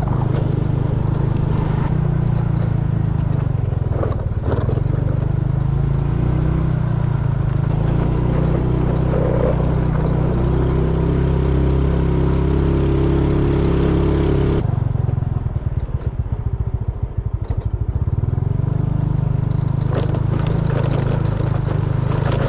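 Motorcycle engine running while being ridden, with road and wind noise. Around the middle the engine note climbs. About two-thirds through it eases off to an uneven pulsing for a few seconds, then picks up again.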